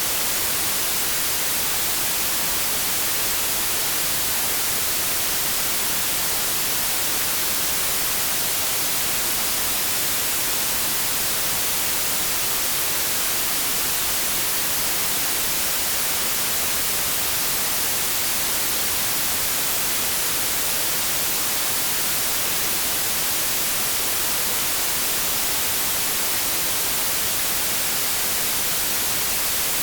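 Steady white noise: an even hiss, strongest in the treble, with no change or break.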